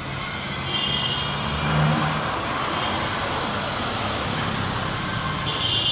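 Heavy rain falling on a flooded city street with motor-vehicle traffic; an engine hum swells as a vehicle passes about two seconds in. A brief high tone sounds about a second in and again near the end.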